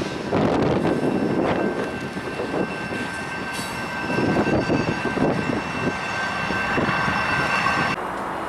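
Freight train rolling past, with rumble and clatter and thin steady high-pitched tones running through most of it, cut off abruptly about eight seconds in.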